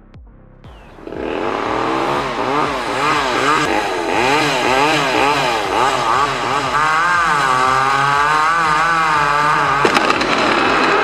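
Chainsaw engine running hard, its pitch wavering rapidly up and down as it cuts, starting about a second in. Sharp cracking sounds come near the end.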